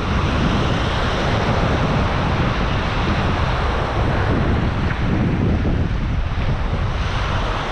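Sea surf washing against a rocky shoreline, with wind buffeting the microphone, steady throughout.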